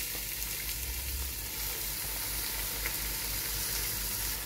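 Washed raw chicken pieces going into hot onion and spice masala in a nonstick pot, the pot sizzling with a steady frying hiss.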